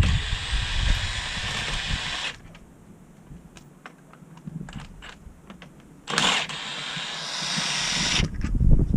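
Two steady hisses of about two seconds each, one at the start and one about six seconds in, each starting and stopping abruptly, with light clicks and knocks in the quiet between.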